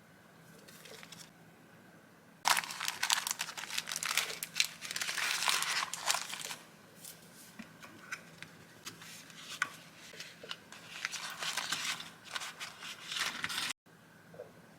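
Paper crinkling and rustling as vintage journaling paper is handled. It starts suddenly about two and a half seconds in, with a loud busy stretch, then scattered crackles and another busy bout near the end, and cuts off abruptly just before the end.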